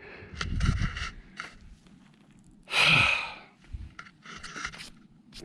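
A hiker breathing hard from the climb, with a long, loud exhale about three seconds in and short scuffs and clicks between breaths.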